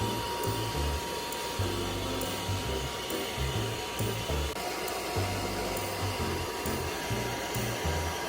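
Hair dryer blowing steadily, a constant whooshing noise with a thin steady whine, as a freshly bathed puppy is dried.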